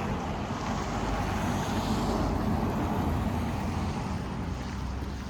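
Steady road noise of a car driving: a low rumble under an even rushing hiss of tyres and air, easing slightly toward the end.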